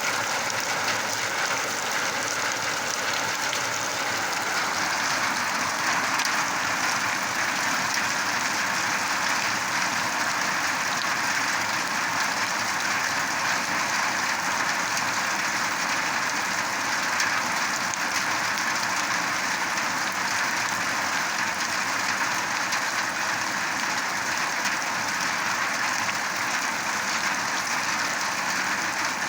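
Steady heavy rain falling, an even hiss that holds constant throughout.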